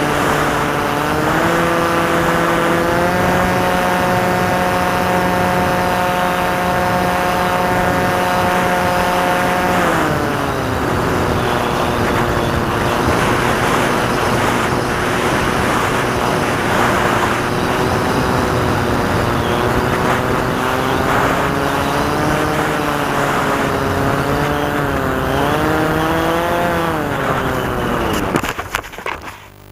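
Electric motor and propeller of a Maxi Swift FPV model aircraft running under throttle, over a rushing noise. The pitch steps up twice early on, holds steady, drops about ten seconds in, wavers, rises again near the end, then falls away and cuts off.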